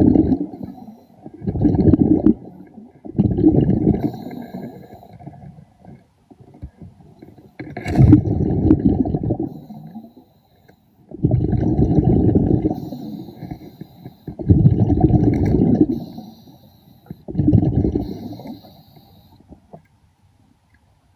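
Underwater breathing through a diving regulator: a rumbling rush of exhaled bubbles about every three seconds, six or seven times, with a faint hiss of inhaled air between them.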